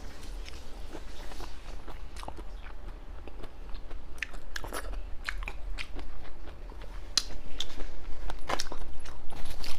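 Close-miked eating: a person biting and chewing food, with crisp crunches and wet clicks scattered through, getting louder over the last few seconds.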